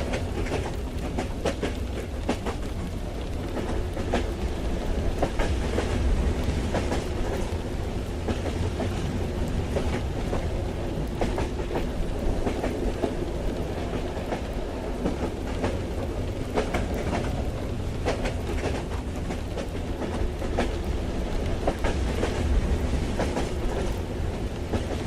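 Train running along the track: a steady low rumble with irregular clicks and clacks of the wheels over rail joints.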